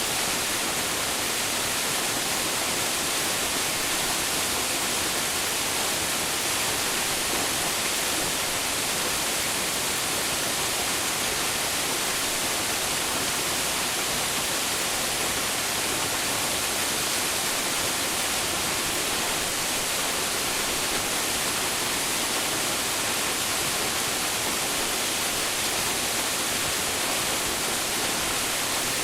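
Waterfall crashing into its pool: a steady, unbroken rush of water with a bright hiss.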